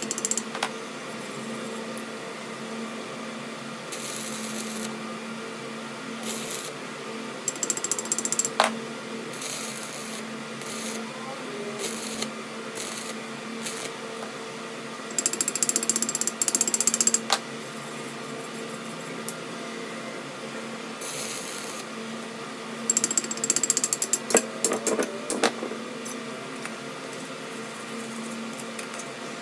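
A workshop machine hums steadily while metal is worked in four short spells of high scraping and clattering, about 4, 8, 16 and 24 seconds in, with a few sharp clicks between them.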